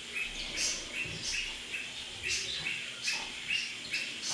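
Small birds chirping: a steady series of short, repeated chirps, about two or three a second, with occasional higher notes in between.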